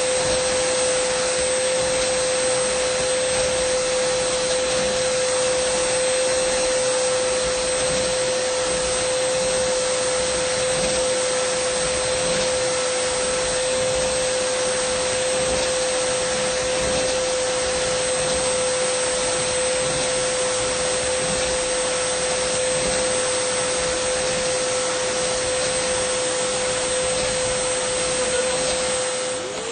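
Dyson vacuum cleaner running steadily: a constant whine over rushing air hiss. Right at the end the level dips for a moment and the whine drops in pitch, then comes back.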